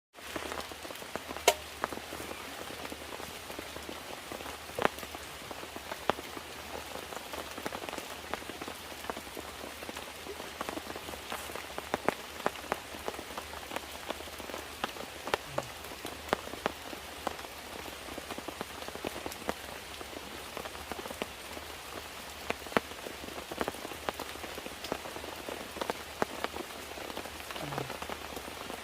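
Steady rain, with many single drops landing close by as sharp taps over the even hiss of the downpour.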